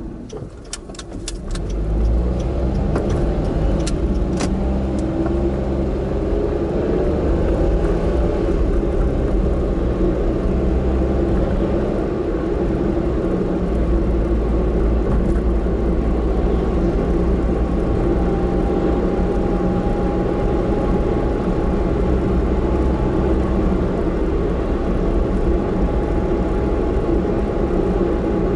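Car engine and road noise heard from inside the cabin. A few sharp clicks come in the first seconds while it is quieter, then the car accelerates about two seconds in with the engine pitch rising, and it settles into steady cruising.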